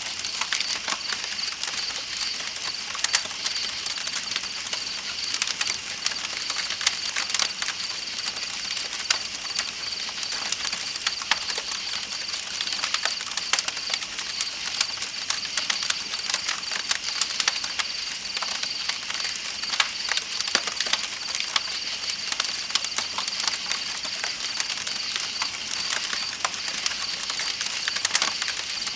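Campfire crackling with frequent small sharp pops, over a steady high-pitched chorus of night insects and the even rush of flowing river water.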